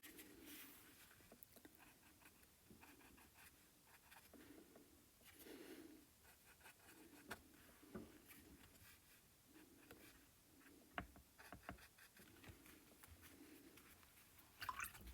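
Near silence with faint scratching of a paintbrush working acrylic paint, with a few small clicks.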